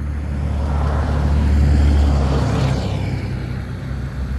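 A road vehicle passing close by: its tyre and engine noise swells to a peak about two and a half seconds in, then fades as its pitch drops away.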